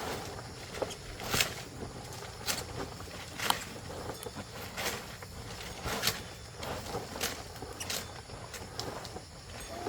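A series of sharp knocks or strikes, about one a second, over a steady outdoor background.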